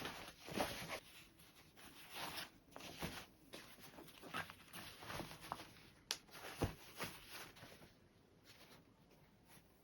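Fabric being handled and rustled in short irregular bursts, with a sharp click about six seconds in and a soft knock just after; the handling dies away near the end.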